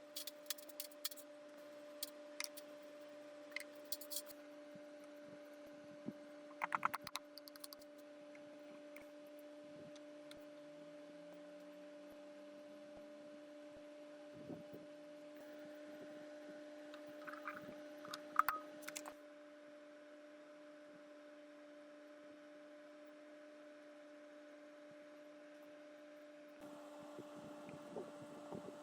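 A steady electrical-sounding hum with scattered light clicks and taps, clustered about a quarter of the way in and again just past the middle.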